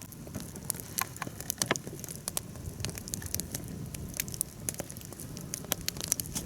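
Wood campfire crackling, with many irregular sharp pops and snaps over a low steady rush.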